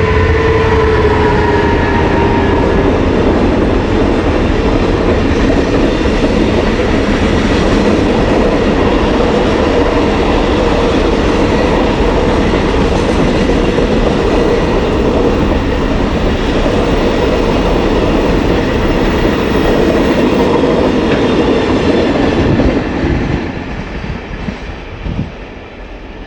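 Freight train of container flatcars rolling past at close range, the wheels clacking over rail joints in a loud, steady rumble. In the first couple of seconds a tone sags slightly in pitch and fades. About 23 seconds in the noise falls off.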